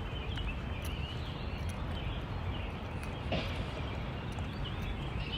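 Lakeside outdoor ambience: a steady low rumble of wind on the microphone, with faint bird chirps and a single click about three seconds in.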